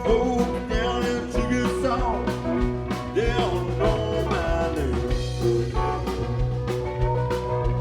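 Live blues-rock band playing an instrumental passage: a lead electric guitar with notes sliding and bending in pitch, over bass guitar and a drum kit.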